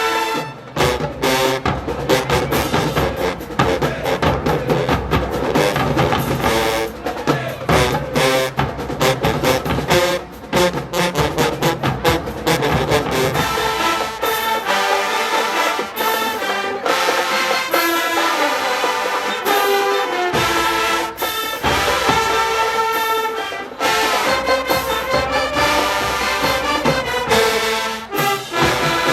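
HBCU show-style marching band playing loud brass (trombones and trumpets) over a drumline. From about 14 s in, the low drums drop out and the horns carry on lighter. The full drumline comes back in at about 20 s.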